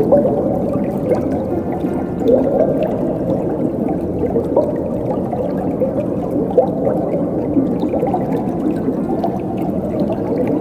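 Flowing water gurgling steadily, a dense deep rush with small bubbling blips throughout.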